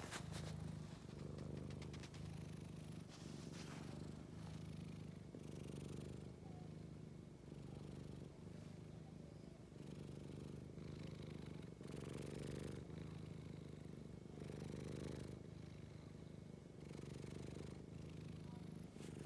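Scottish Fold cat purring, a low rumble that swells and eases with each breath, about once a second.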